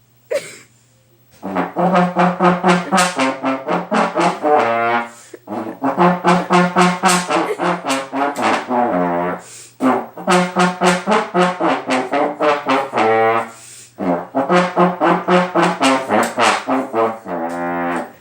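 Solo trombone playing a melody in four phrases of quick, tongued repeated notes, each phrase ending on a held note with vibrato, with short pauses for breath between phrases.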